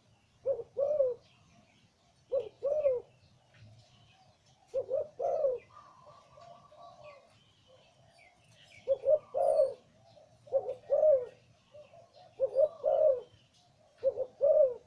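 A male zebra dove cooing in repeated phrases, each a couple of short notes and a longer rolling one, about seven phrases with a pause in the middle. Faint chirps of other small birds are heard behind it.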